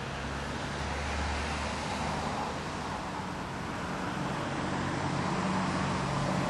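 Motor vehicle running nearby, a steady mix of engine hum and road noise that slowly grows louder.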